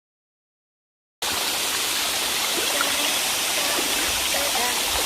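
Dead silence for about a second, then the steady rush of a waterfall and stream cuts in abruptly and carries on evenly.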